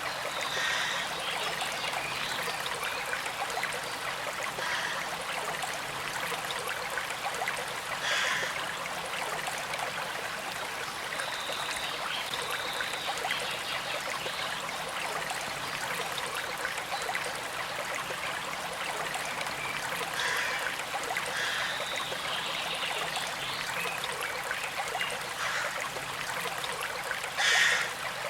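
Small creek flowing steadily, water trickling and gurgling over stones, with a few brief louder surges; the loudest comes just before the end.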